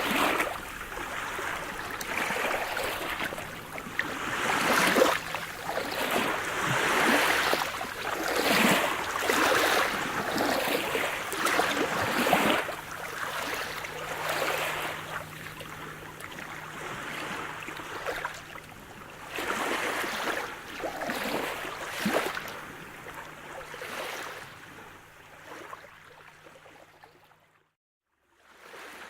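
Sea surf: waves breaking and washing in one after another in repeated surges. Near the end it fades away and cuts out for about a second before starting again.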